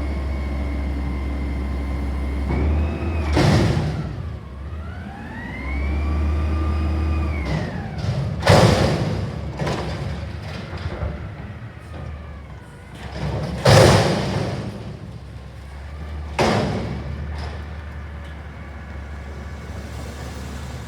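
CNG Peterbilt 320 front-loader garbage truck with a McNeilus Atlantic body working a dumpster. The engine and hydraulics run with a low hum and a whine that dips, then rises and falls in pitch, and the steel container slams against the truck four times with loud metallic bangs.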